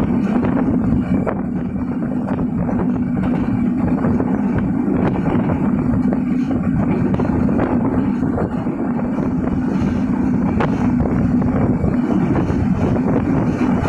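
Silkcity Express passenger train running along the line, heard from on board: a steady loud rumble of wheels on track with a strong low hum, and wind on the microphone.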